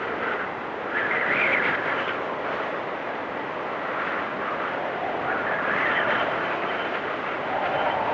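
Blizzard wind blowing steadily and gusting in swells, about a second in, around six seconds, and again near the end.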